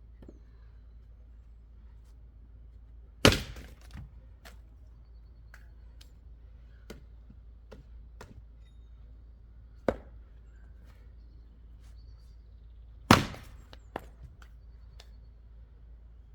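Axe chopping wood: two heavy blows about ten seconds apart, a lighter strike between them, and small knocks after each blow.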